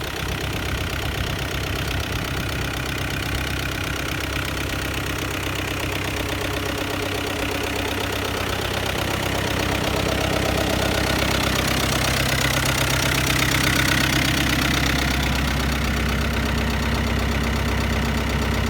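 Kubota M7500 tractor's V4000 four-cylinder diesel engine running steadily, picking up a little in pitch and loudness about ten seconds in.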